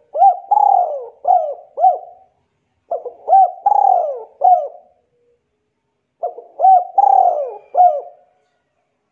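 A bird calling: three near-identical phrases of several quick up-and-down notes, each phrase about two seconds long and repeated roughly every three seconds.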